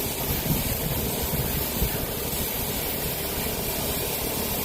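Garden hose nozzle spraying a steady stream of water onto the coils of an outdoor AC condenser unit, a constant hiss, rinsing off the buildup that blocks airflow.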